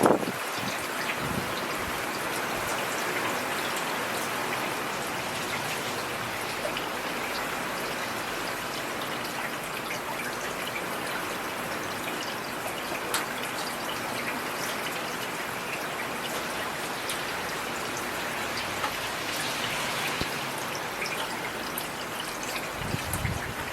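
Heavy, steady rain falling, with many small drop patters. A brief low rumble comes near the end.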